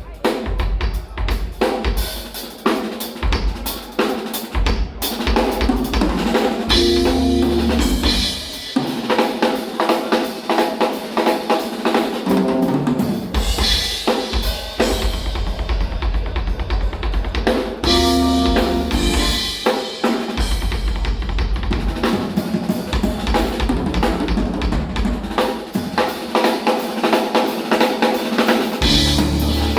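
Drum kit played live in busy jazz-fusion patterns, with kick drum, snare hits, rimshots and rolls, a few short pitched passages sounding among the drums.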